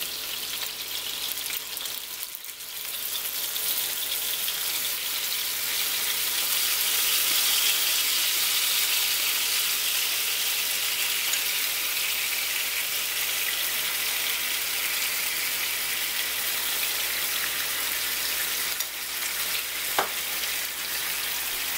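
Salmon fillets sizzling in a nonstick frying pan as a red wine, Worcestershire and garlic sauce is spooned over them. The sizzle dips briefly, grows louder a few seconds in and then holds steady, with a single click near the end.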